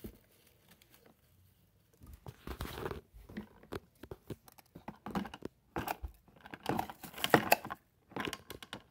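Plastic toy garbage truck and toy bin being handled, a string of irregular small plastic clicks and rattles beginning about two seconds in.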